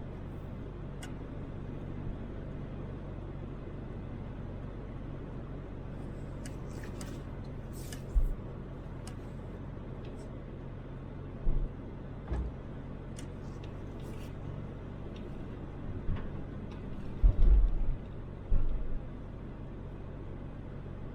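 A Toyota Land Cruiser 80 being driven: steady engine hum and road noise. Several short, loud low thumps come about 8 seconds in, twice around 11 to 12 seconds, and in a cluster near the end.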